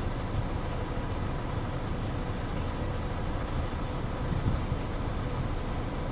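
Wind buffeting the microphone: a steady, gusty low rumble with no distinct events.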